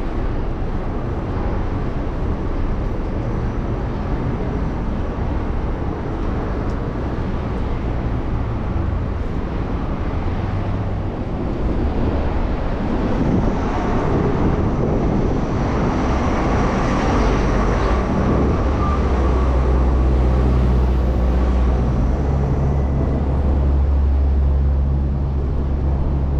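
Street traffic heard from a moving bicycle, with wind on the microphone. A vehicle passes close about halfway through, and a low engine hum runs through the second half.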